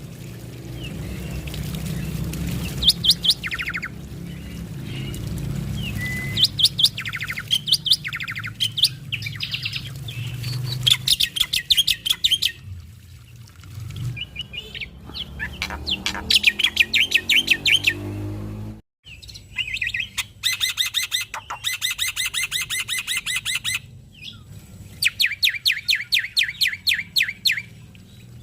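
Male black-winged myna (jalak putih) singing a loud, chattering song: rapid rattling trains of high notes, each a second or two long, repeated with short pauses. A low steady hum lies underneath.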